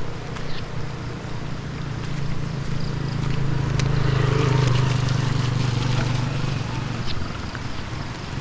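An engine running with a steady low hum over a hissing background; the hum swells louder from about two seconds in and eases off again around seven seconds.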